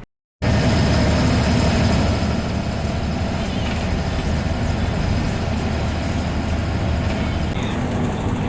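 Diesel engine and road noise of a TNSTC bus under way, heard from the driver's cabin: a loud, steady low drone that starts abruptly about half a second in.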